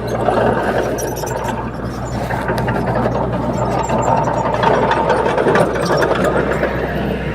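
Komatsu D21P bulldozer's diesel engine running steadily under work, with scattered metallic clicks over a constant low hum.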